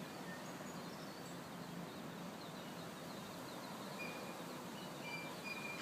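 Outdoor ambience: a steady background hiss with a few faint, short, high bird chirps, the clearest about four seconds in and again near the end.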